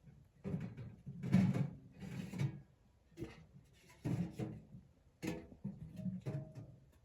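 A series of knocks, clunks and scrapes of things being handled, about a dozen in seven seconds, some with a short hollow ring.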